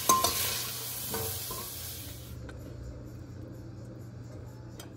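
Green beans sizzling in hot oil in a stainless steel pot while a metal slotted spoon stirs and scrapes them, with a few clicks of the spoon on the pan. The sizzle cuts off suddenly a little over two seconds in. Near the end the beans are tipped out of the pot into a glass dish with a few light clinks.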